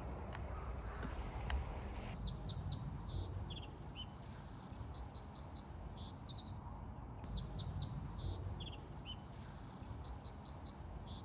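A songbird singing two similar phrases about a second apart. Each phrase is a run of quick high arched whistles, a short buzzy note, then a fast trill of repeated notes.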